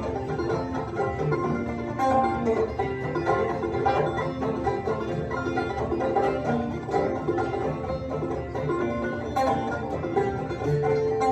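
Banjo and acoustic guitar playing an instrumental bluegrass tune together, a steady stream of plucked notes.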